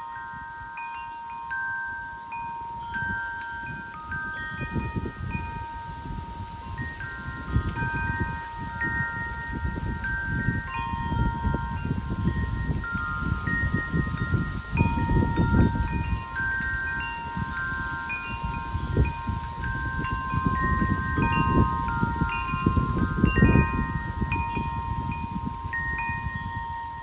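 Wind chimes ringing in gusty wind, notes struck at irregular moments and ringing on over one another. Low rumbling wind gusts come and go, strongest about halfway through and again near the end.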